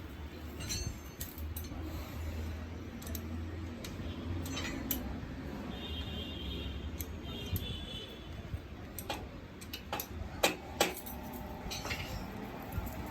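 Metal hand tools clicking and clinking against engine parts while a motorcycle's valve tappets are adjusted, with two sharp clacks about ten seconds in.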